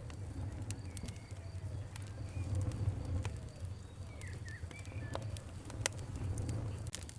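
Fire crackling with scattered sharp pops over a steady low rumble. A bird chirps briefly a few times about four to five seconds in.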